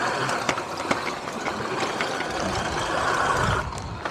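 Riding noise from an electric dirt bike: a steady rushing hiss of wind and tyres, with frequent clicks and rattles as it goes over rough ground. It eases off about three and a half seconds in.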